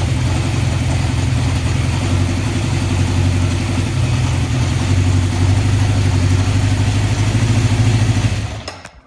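1974 Honda CB750's air-cooled inline-four engine idling steadily as it warms up after a cold start, then switched off near the end, the sound dying away quickly.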